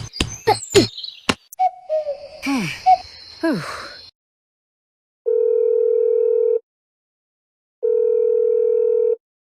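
A rapid run of clicks and taps, then several short falling whistle-like glides. After that comes a telephone ringback tone: two identical long, steady beeps, each about a second and a half, with a pause between them, as heard while a call rings through.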